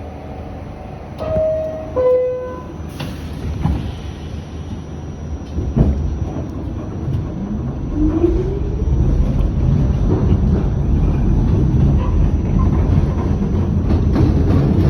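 Subway door-closing chime, two descending tones about a second in, then the Q train pulling out of the station: its motors whine upward in pitch as it speeds up and the rumble of wheels on rail grows louder.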